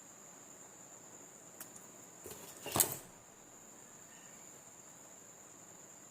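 A short clatter of small hard objects being handled, peaking a little under three seconds in, over a steady faint high-pitched whine.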